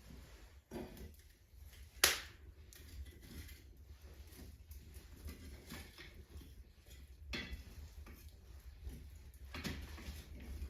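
A few scattered sharp clicks and knocks, one much louder about two seconds in, over a low steady rumble.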